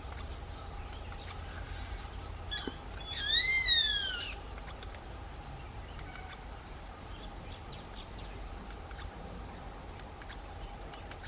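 White-eyed buzzard calling, the male's courtship call to the female: a short note, then one long loud call that rises and then falls in pitch, about three seconds in.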